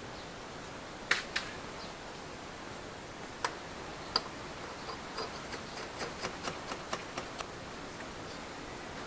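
Sharp clicks of hand tools working on a car's strut assembly: a few scattered clicks, then a run of about ten at roughly four a second, over a steady hiss.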